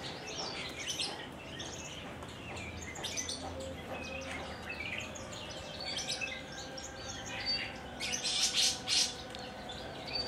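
Javan bush lark (branjangan) singing: a rapid, varied run of short chirps and whistles, growing louder and denser about eight seconds in.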